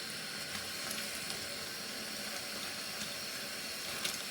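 Steady hiss of running water, like a tap filling a sink, with a few faint ticks.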